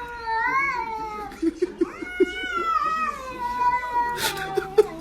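A cat yowling in one long, drawn-out meow that rises and falls and slowly sinks in pitch over about four seconds, followed near the end by a brief noisy rustle.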